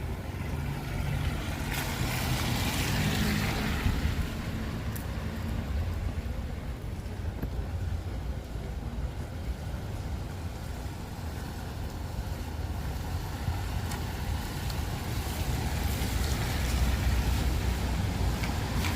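Wind buffeting the microphone with a steady low rumble, over street traffic on a wet road. A vehicle's tyre hiss rises and fades about two to four seconds in.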